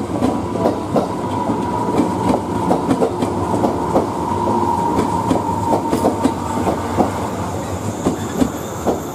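JR Kyushu 415 series stainless-steel electric train rolling past and into the station. Its wheels clatter irregularly over the rail joints and points, over a steady rumble. A steady high tone sounds over the clatter and fades out about seven seconds in.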